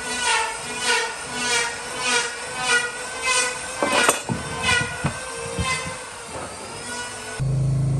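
A woodworking cutting tool squealing against wood in rhythmic pulses, about one every half second, each with a bending pitch. Near the end the squealing gives way to a machine's steady low hum.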